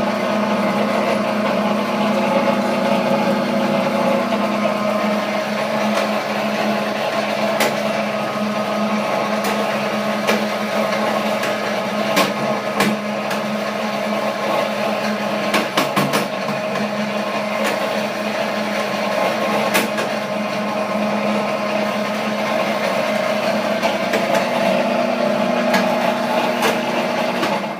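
Chinese-made electric sugar cane press running, a steady motor hum with irregular sharp ticks and clicks over it. This is the unexplained noise being troubleshot, which seems to come from the lower drive area rather than up at the rollers.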